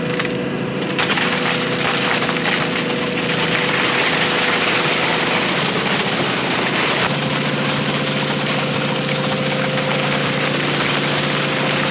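A heavy-equipment diesel engine running steadily while wet concrete pours and slides out of a bucket, a rushing noise over the engine from about a second in to about seven seconds in. At about seven seconds the engine note changes and holds steady.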